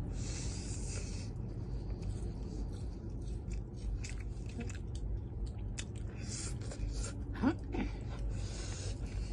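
People eating chicken and instant noodles: close chewing with many small mouth clicks, a few short hissing bursts, and a low steady hum underneath.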